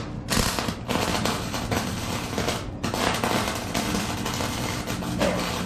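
Forney FC125 flux-core welder arc crackling and spitting as a bead is run on steel, breaking off briefly twice.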